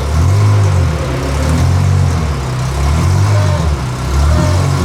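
Pagani Zonda F's AMG V12 running at low revs through its exhaust, the engine note rising and falling a little.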